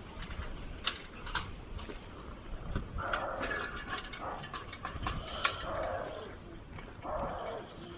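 Scattered sharp clicks and knocks with soft scuffing from handling a strapped wooden beehive and the cart it is being loaded onto.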